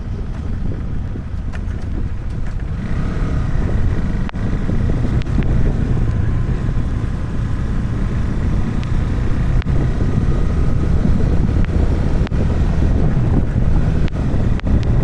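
Wind buffeting the microphone over the steady low rumble of a vehicle in motion.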